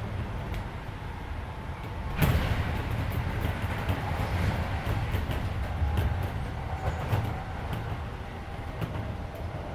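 Keisei 3400-series electric train running between stations, heard from inside the car: a steady low rumble of wheels on rail with frequent short clicks, under the hum of the car's air conditioning. About two seconds in, a sudden sharp noise sets off a louder rush that lasts several seconds before easing back.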